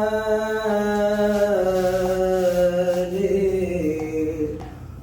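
A man's voice singing long, wordless held notes that step down in pitch, fading out near the end.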